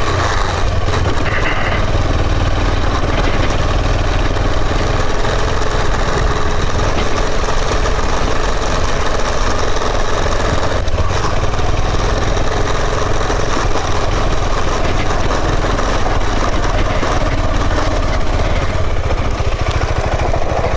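Motorcycle engine running steadily during a ride, a constant deep rumble with road and air noise over it.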